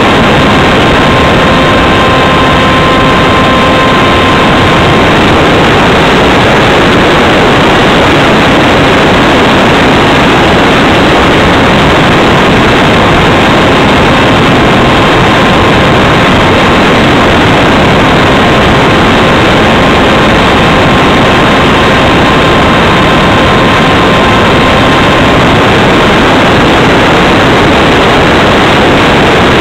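Loud, steady rush of wind and airflow over the microphone of a camera riding on a Radjet 800 RC foam jet in flight, with a faint steady whine underneath from the model's electric motor.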